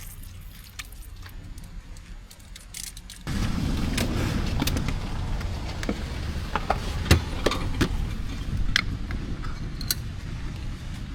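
A vehicle moving over a rough, broken road: a low rumble with many scattered clicks, knocks and rattles. It jumps sharply louder a little over three seconds in.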